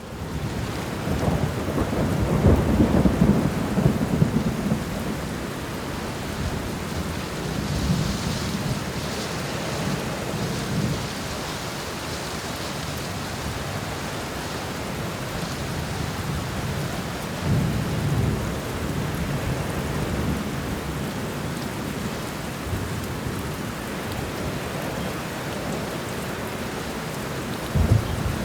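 Steady heavy rain with rolling thunder. A long, loud rumble builds in the first few seconds, softer rumbles come and go in the middle, and a sharper clap of thunder hits near the end.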